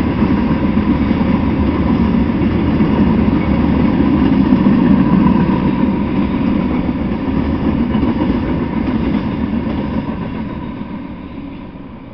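Freight train of tank cars and boxcars rolling past on the rails: a steady sound of steel wheels running on the track that fades away near the end as the last car goes by.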